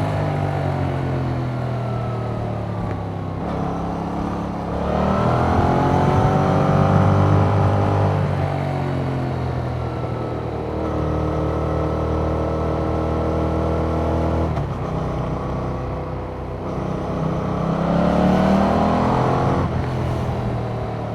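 2021 Yamaha MT-07's 689 cc parallel-twin running through its stock exhaust, with the pitch falling and rising as the throttle changes. It revs up about four seconds in, holds a steady pitch through the middle, then revs up again near the end.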